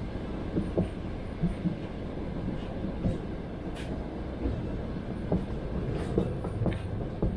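Passenger train running on rails, heard from inside a carriage: a steady rumble of wheels with irregular knocks and clacks as the wheels pass over rail joints.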